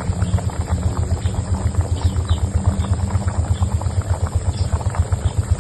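A small engine idling with a steady, evenly pulsing low throb.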